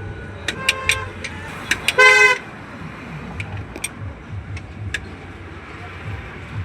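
A vehicle horn toots once, short and loud, about two seconds in. Sharp metallic clicks and taps of hand tools and a low steady hum run underneath.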